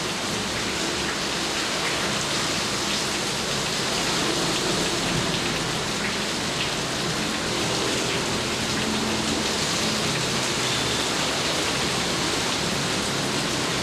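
Steady heavy rain falling on surfaces, an even continuous hiss of many drops.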